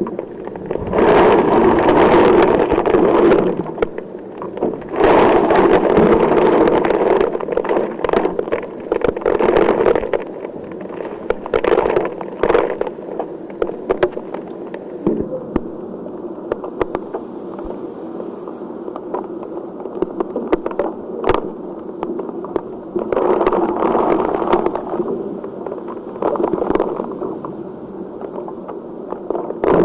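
Heavy rain pouring, its rush swelling and easing in gusts, with many sharp drips and taps through it.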